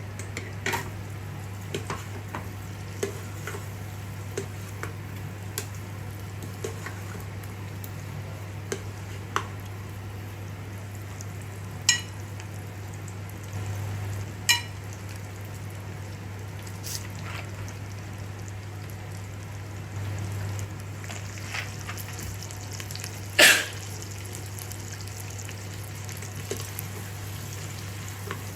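Food sizzling as it fries in a pan, with a utensil stirring and clinking against the pan in scattered short knocks, one louder knock near the end. A steady low hum runs underneath.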